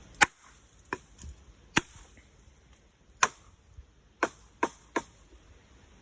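A big wooden stick whacked against something: seven sharp knocks at uneven intervals, three of them coming quickly together near the end.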